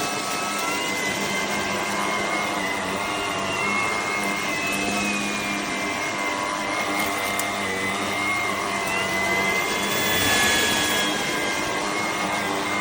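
Shark cordless stick vacuum running: steady rushing airflow under a high motor whine that wavers a little in pitch, swelling slightly louder about ten seconds in.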